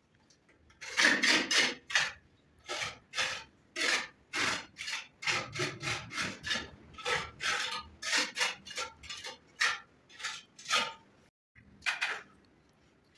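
Repeated rasping back-and-forth strokes of a hand tool, about two a second, starting about a second in and pausing briefly near the end.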